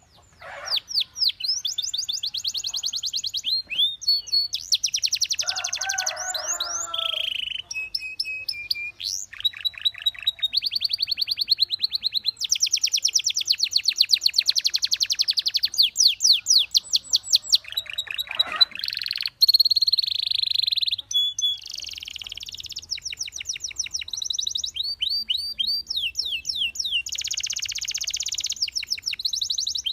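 Belgian canary singing a long, continuous song of rapid trills. Each run repeats one note many times a second, then switches to a different trill every second or few seconds, with brief breaks around 8 and 18 seconds in.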